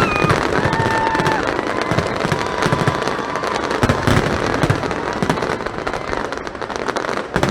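Fireworks display: a rapid, continuous barrage of bangs and crackles, with a brief whistle about a second in.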